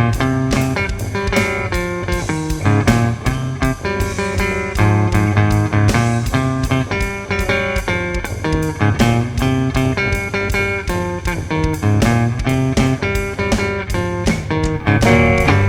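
Instrumental break of a lo-fi home-recorded grunge rock song: guitar playing over a steady beat, with no vocals.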